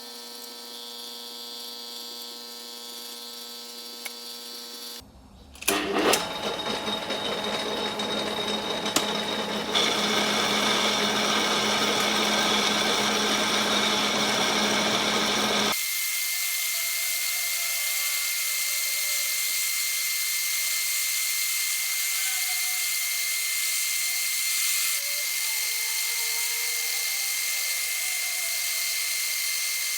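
Metal lathe running, a steady machine drone with a few sharp clicks, changing abruptly about five seconds in and again about sixteen seconds in.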